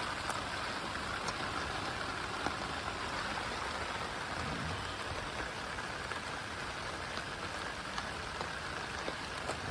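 Steady rain falling, with a few single drops ticking now and then.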